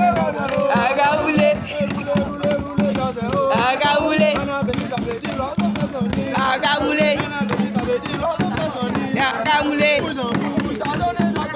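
A group of voices singing a campfire song over steady, fast percussion.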